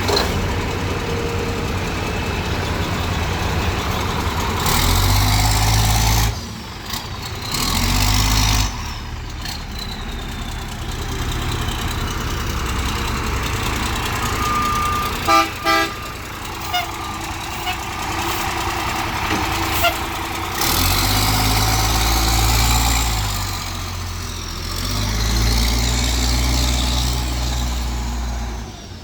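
Straight-piped Cummins C8.3 diesel in a school bus accelerating hard in repeated bursts and easing off between them, with a whine that rises and falls in pitch. The longest pulls come in the second half. A few short beeps sound about halfway through.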